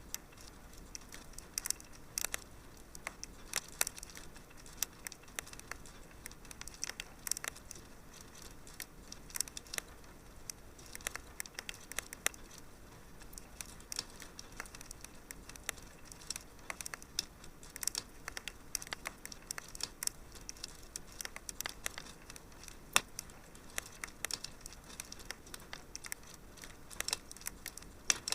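Wood fire in a fireplace crackling, with many irregular sharp pops and snaps over a faint steady hiss.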